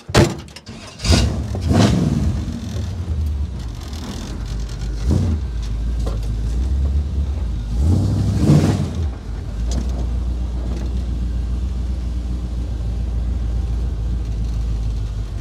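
1957 Chevrolet convertible's engine starting about a second in, blipped on the throttle a few times, then running steadily.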